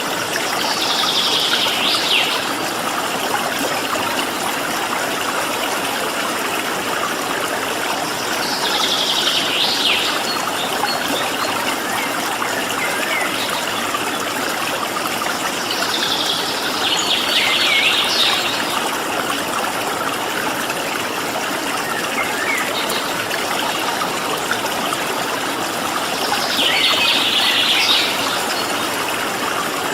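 Steady rush of running water, with a small bird singing a short, high phrase four times, roughly every eight seconds.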